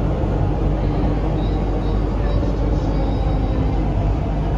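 Steady rumble of an MTR Island Line CRRC Qingdao Sifang electric multiple unit running, heard from inside the carriage.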